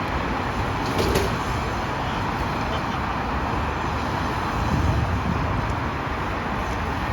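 A train running along the tracks with a steady rushing rumble. There is one short clank about a second in.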